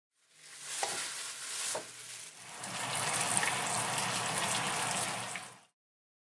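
Chicken drumsticks sizzling and crackling in oil in a frying pan, with two light knocks about a second apart near the start. The sizzle grows louder midway and then cuts off suddenly.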